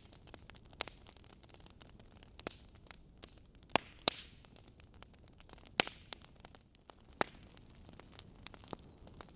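Wood logs burning in a fireplace, crackling: scattered sharp pops and snaps over a faint steady hiss, with the loudest few pops about four, six and seven seconds in.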